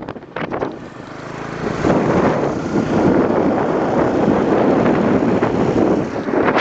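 Motorcycle engine running close by, a loud rushing noise that builds about a second in and then holds steady.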